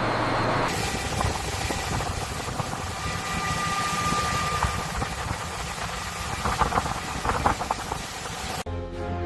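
Steady machinery noise with a hiss, and a cluster of sharp clicks about six and a half to seven and a half seconds in; music with sustained tones cuts in near the end.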